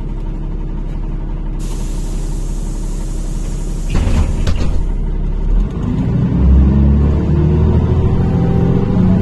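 NefAZ-5299 city bus idling at a stop, then a short hiss of air from its pneumatic system about four seconds in, followed by the engine revving with rising pitch as the bus pulls away.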